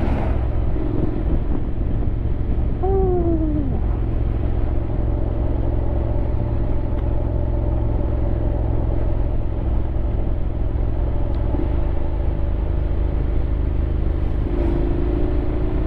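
Honda X-ADV 750's parallel-twin engine running steadily under a low, constant rumble. About three seconds in, a brief falling tone sounds over it.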